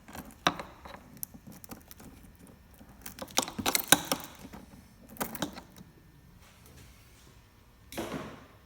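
Ratchet and 8 mm socket clicking and clinking in short, irregular bursts while loosening a fastener, with a short scrape near the end.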